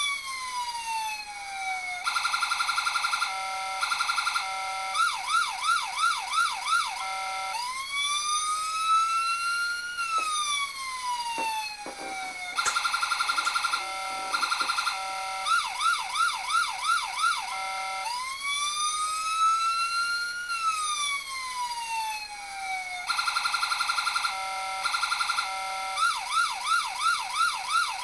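Electronic police siren module in a 1/18 scale model SWAT Hummer running through its tone cycle again and again. Each cycle has a slow rising-and-falling wail, a fast buzzing pulse, a few short stepped beeps and then quick up-down yelps, repeating about every ten seconds.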